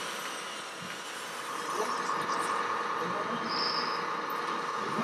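Steady whine of a small electric motor and gearing from RC construction machinery, setting in about one and a half seconds in, over background chatter.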